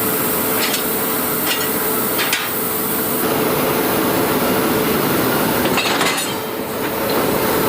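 A few short metal knocks and clinks from a railway coach's train line coupler being handled: three in the first few seconds and another near the end. Under them runs a steady hum.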